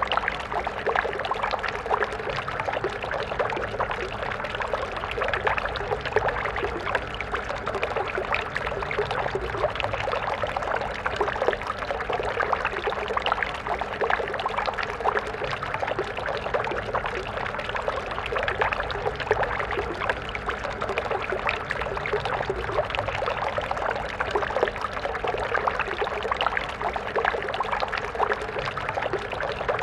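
Stream of water flowing steadily, a continuous babbling and splashing.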